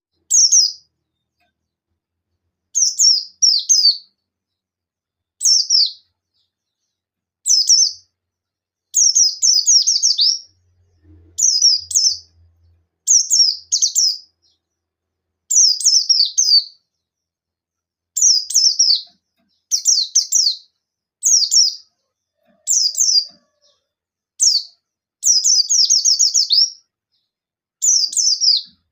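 White-eye (pleci buxtoni) singing in short, rapid bursts of high, quick-falling chirps, each burst under two seconds, repeated every second or two with silent gaps: the bird's rival-challenging 'nembak' song.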